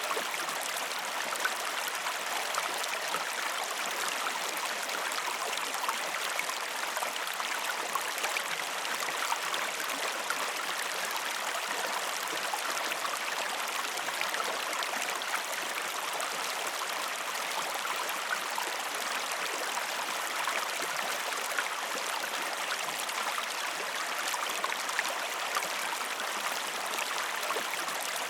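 A river's running water, a steady rushing with fine babbling, as a continuous ambient recording.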